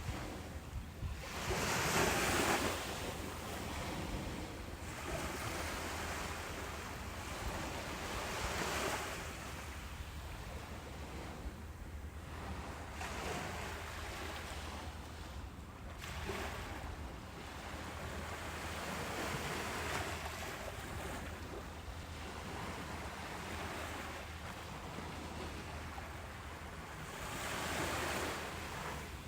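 Ocean waves breaking and washing up a beach in slow swells every few seconds, the biggest about two seconds in and another near the end, over a steady low rumble.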